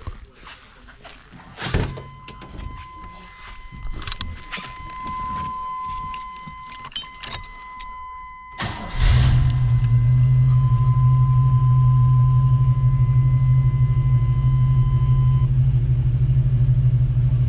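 Keys jangling and clicks, with a steady electronic warning tone sounding, then about nine seconds in the 1984 Hurst Olds' 307 V8 cranks briefly and fires right up on a cold start. It settles into a loud, steady idle, and the warning tone stops near the end.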